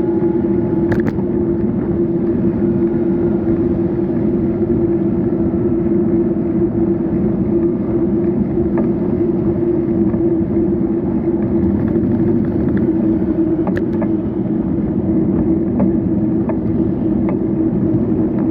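Steady road noise while riding a bike: a constant drone over a rush of wind and tyre noise, with a few faint clicks.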